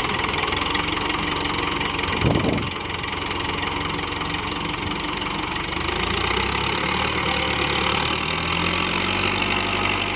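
Farm tractor's diesel engine running steadily, with a brief louder burst about two seconds in.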